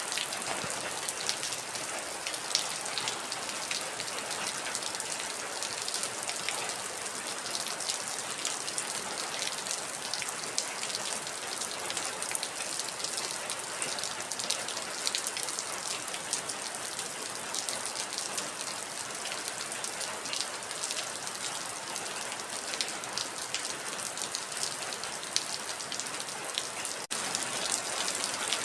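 Heavy rain falling steadily: a dense, even hiss full of small drop ticks. There is a momentary dropout near the end.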